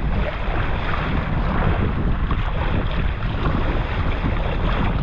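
Steady rush of wind buffeting the microphone, mixed with splashing sea water.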